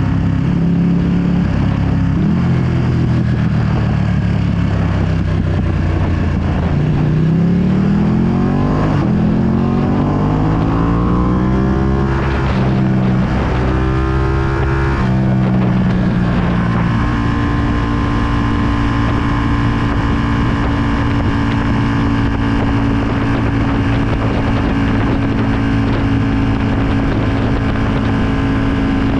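2020 Ducati Panigale V2's 955 cc Superquadro twin through a full Akrapovic exhaust, under riding. The engine note holds steady, then climbs for several seconds under acceleration, breaks at a couple of gear changes around halfway, and settles into a steady cruise. Wind noise is on the microphone throughout.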